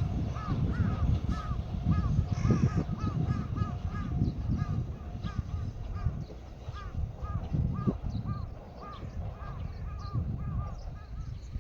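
A long series of short, rising-and-falling animal calls, two to three a second, over a low rumble of wind noise.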